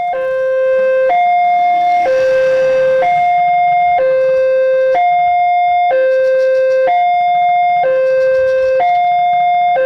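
Level-crossing warning alarm sounding a steady two-tone hi-lo signal, the tones alternating about once a second: the crossing is warning that a train is approaching.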